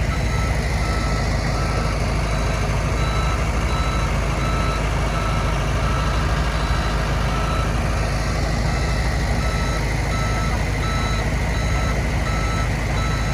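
Heavy diesel machinery running steadily under load, with a reversing alarm beeping at a regular pace throughout.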